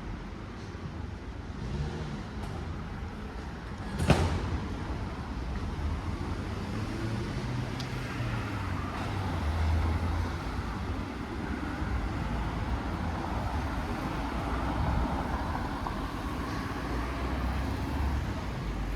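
Street traffic: motor vehicles running and passing with a steady low rumble. A single sharp knock sounds about four seconds in.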